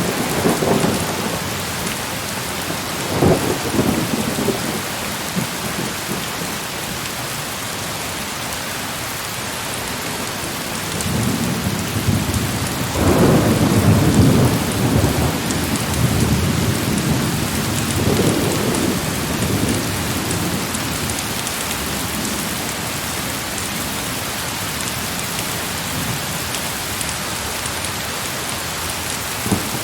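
Heavy rain falling steadily, with rolls of distant thunder: a short rumble about three seconds in, a longer, louder one around the middle, and another shortly after.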